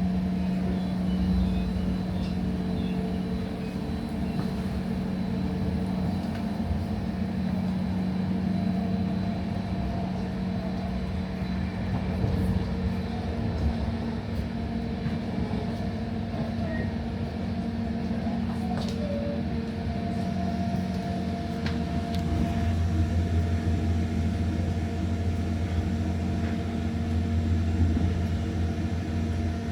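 ÖBB regional train running along the line: a steady rumbling hum with several held tones from the drive, the low tone growing stronger about two-thirds of the way in, and a few light clicks from the track.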